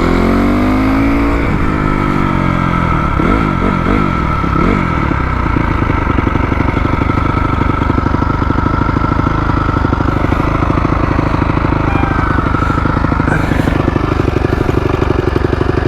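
A 2004 250 dirt bike's single-cylinder engine running: it is revved up and blipped several times in the first few seconds, then settles into a steady idle.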